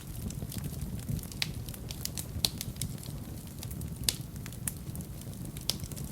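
Wood fire burning in a fireplace: a low steady rumble of flame with irregular sharp crackles and pops, the loudest pops about two and a half and four seconds in.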